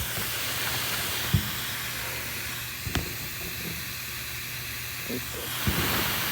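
R22 refrigerant leaking out of a hole in the AC condenser's line where a wire rubbed through it, making a steady hiss, with a faint low hum and a few light knocks.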